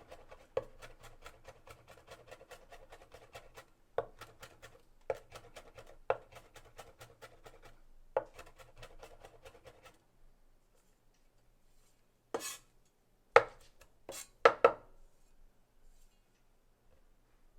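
Knife chopping rapidly on a cutting board, about six or seven strokes a second with the odd heavier stroke. The chopping stops about ten seconds in, and a few separate knocks follow.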